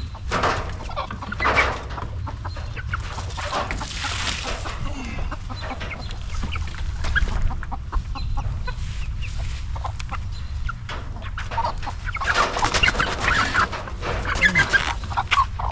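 A hen clucking, with a louder, denser flurry of calls from about twelve seconds in, as she is chased to be caught.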